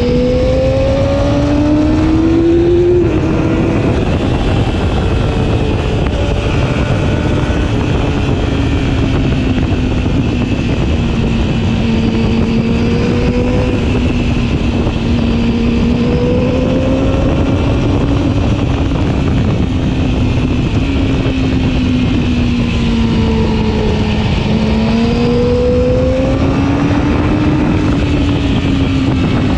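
Yamaha R6's inline-four engine pulling at high revs while riding, its note climbing in the first few seconds and then swelling and easing gently with the throttle, over heavy wind and road rush.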